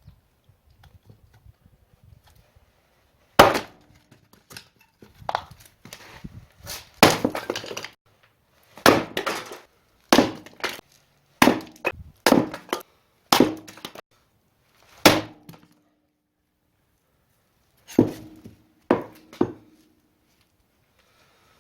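Axe splitting firewood: about a dozen sharp knocks and cracks, irregularly spaced and some in quick clusters, with a pause about two-thirds of the way through.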